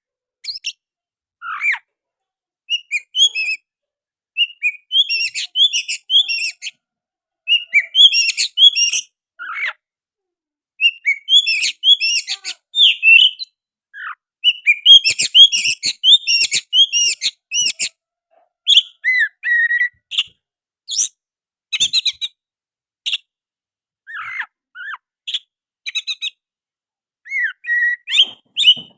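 Oriental magpie-robin singing a loud, varied run of whistled and chattering phrases in bursts with short pauses, its song filled with copied sooty-headed bulbul calls.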